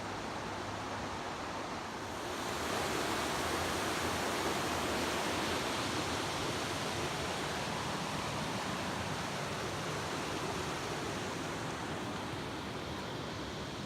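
Steady rush of the North Fork American River's flowing water, becoming louder and brighter about two and a half seconds in.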